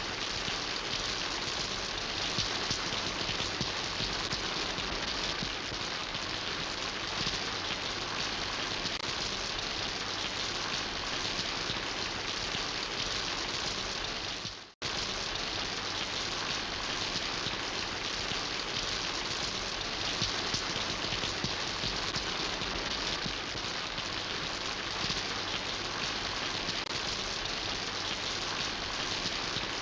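Steady rain falling, an even hiss of drops. About halfway through it fades out to silence for a moment and comes straight back at full level.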